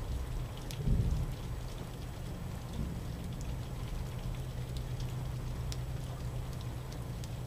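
Steady rain falling in a thunderstorm, with scattered drops ticking sharply. A low rumble of distant thunder swells briefly about a second in.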